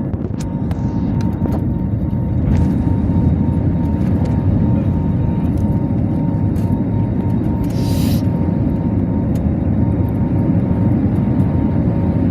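Airliner cabin noise in flight: a steady low rumble of the engines and airflow, with a faint steady hum tone above it. A brief hiss about eight seconds in.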